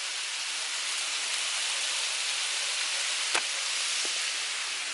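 Marinated shrimp skewers sizzling on a hot grill: a steady hiss, with one faint click about three and a half seconds in.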